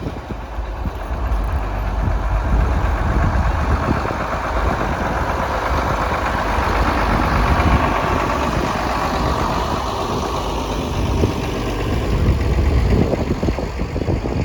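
Farm tractor engine running steadily, a little louder around the middle.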